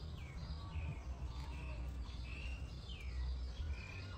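Small birds chirping, a series of short high calls that slide down in pitch, over a low steady rumble.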